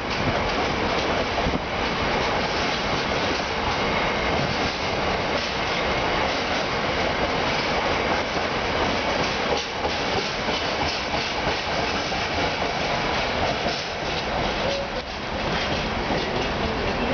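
Freight train of open box wagons rolling steadily past, the wheels clattering over the rail joints.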